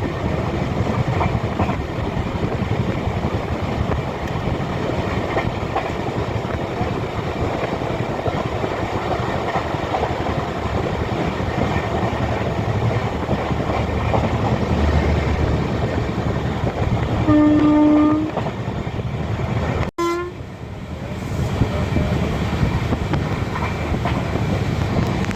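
Passenger train running on the rails, heard from inside a carriage: a steady rumble with the clatter of wheels. About 17 seconds in, a train horn sounds for about a second. Near 20 seconds the sound cuts out for an instant, then there is a short horn note.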